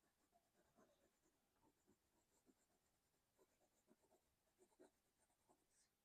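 Faint scratching of a colored pencil on sketchbook paper: short, irregular strokes.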